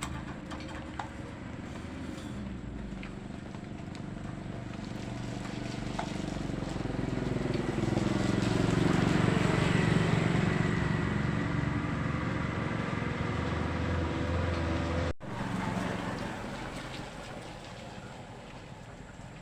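Boat engine running, growing louder to a peak about halfway through and then fading, as if passing by. The sound cuts off abruptly about three-quarters of the way in, then resumes more quietly.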